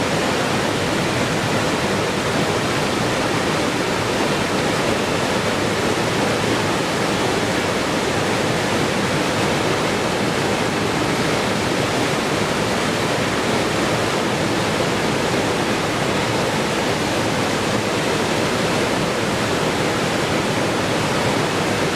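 Rushing water, a steady, unbroken rush with no separate splashes or drips.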